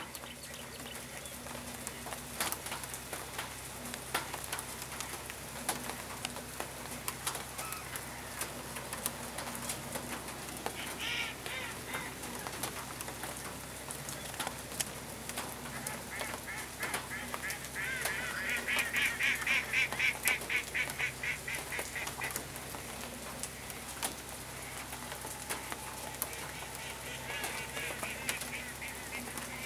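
Light rain falling, a steady hiss with scattered drops ticking close by. Partway through, a louder run of rapid, evenly pulsed high-pitched chatter lasts about four seconds.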